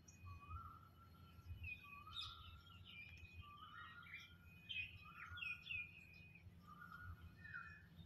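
Faint birdsong: several birds calling at once, with short whistled notes and slurred phrases overlapping throughout, over a low steady hum.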